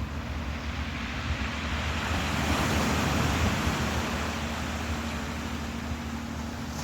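Ocean waves washing in: a hiss of surf that swells about two seconds in and slowly ebbs, over a steady low rumble and a faint constant hum.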